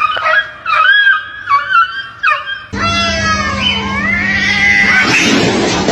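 A pet animal calling: several short cries that bend up and down in pitch, then an abrupt switch to one long drawn-out wail over a steady low hum.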